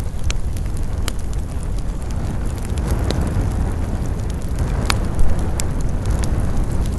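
Campfire burning with a steady low rumble and scattered crackles and sharp pops of burning wood; a stronger pop comes about five seconds in.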